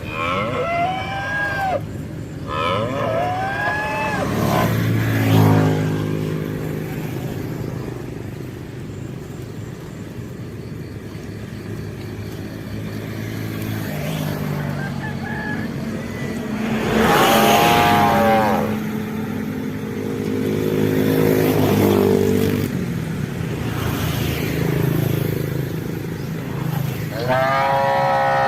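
Cattle mooing, with a long run of drawn-out calls, some low and level and others rising and falling at a higher pitch.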